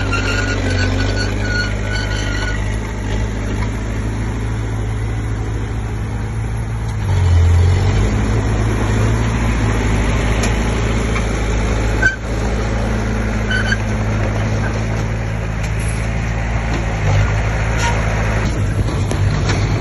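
Komatsu D20P bulldozer's diesel engine running steadily, growing louder about seven seconds in. A quick run of high-pitched chirps sounds in the first two seconds, and there is a single sharp knock about twelve seconds in.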